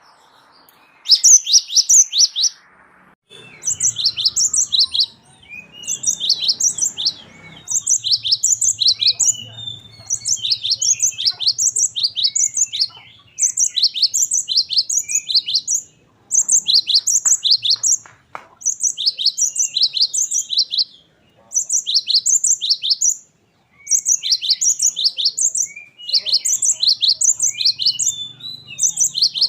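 A gelatik wingko (cinereous tit) singing a long, rolling song: bursts of quick, high, repeated notes, each lasting a second or two, repeated over and over with short pauses between.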